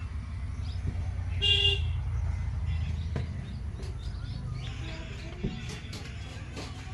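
A car horn toots once, briefly, about a second and a half in, over a steady low rumble.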